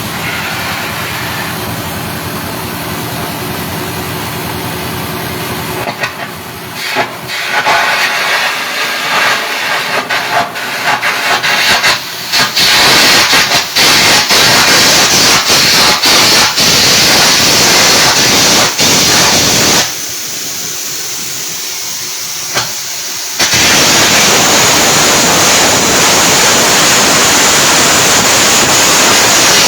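Stick (arc) welding: after a steady hum, the arc sputters and crackles as it is struck about six seconds in, then settles into a loud, steady sizzle. It breaks off for about three seconds and starts sizzling again.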